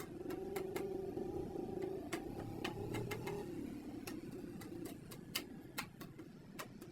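Irregular light clicks and taps over a low steady hum; the hum fades out about halfway through.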